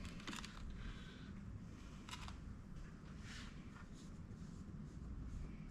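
Faint, scattered light clicks and rustles of small carburetor parts being handled on a workbench, over a low steady hum.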